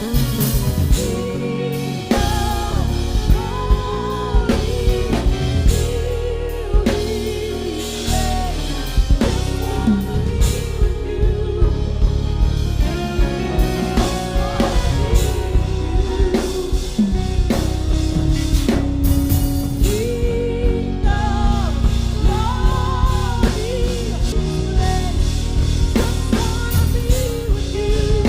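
Live worship band music: drum kit with regular snare hits over bass and keys, with a wavering melodic line on top.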